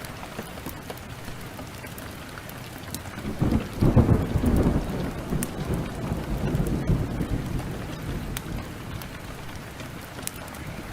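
Heavy, steady downpour with a clap of thunder about three and a half seconds in that rumbles off over the next few seconds. The small, sharp crackles of a wood fire sound throughout.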